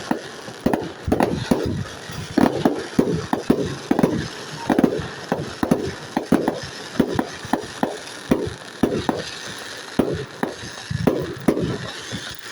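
Fireworks bursting overhead in a rapid, irregular series of sharp bangs, about two to three a second, each trailing off in a short echo.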